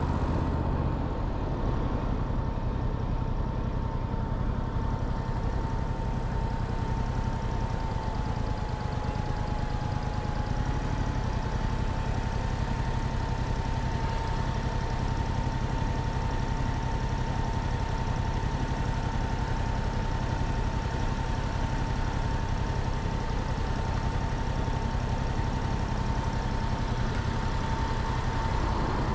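Motorcycle engine running steadily at an unchanging engine speed, with no revving. A thin, steady high whine sits over it and dips slightly in pitch for a few seconds near the first third.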